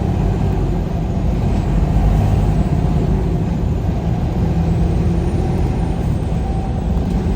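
Vehicle engine and road noise while driving at a steady speed: a steady low hum of the engine under tyre and wind noise.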